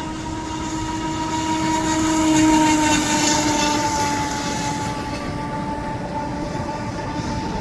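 RC model boat's motor running with a steady whine that swells to its loudest a couple of seconds in and then eases, its pitch falling slightly, over a hiss that is strongest at the peak.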